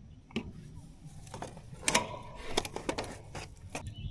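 Irregular sharp clicks and snaps, about half a dozen, from hand tools and parts being handled while wiring low-voltage thermostat wire, the loudest about two seconds in.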